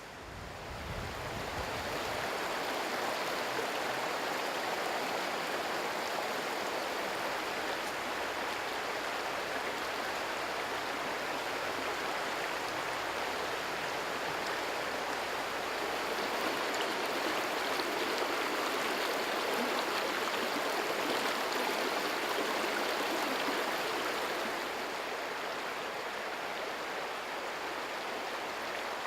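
River water rushing steadily over rapids, a continuous even noise that fades in over the first couple of seconds and swells a little past the middle.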